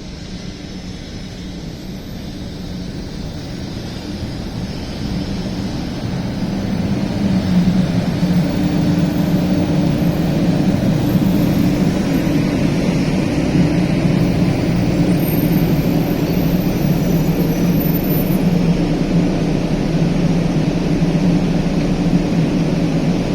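Hello Kitty Shinkansen, a 500 series bullet train, pulling in along the platform. Its rumble and low hum build over about seven seconds, then stay loud and steady.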